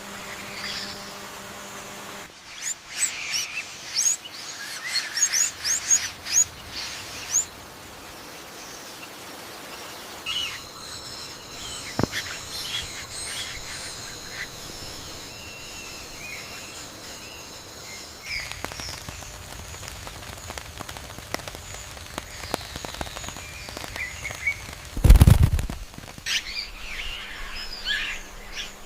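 Birds calling in quick, sharp chirps, loudest and busiest in the first several seconds, with scattered chirps later. A steady high whine runs through the middle, and there is a single loud low thump near the end.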